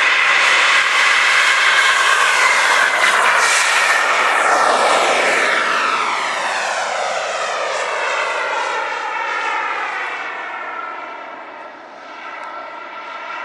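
Gas turbine of an RC F-15 model jet, a loud steady jet rush and whine that sweeps past and fades away in the second half.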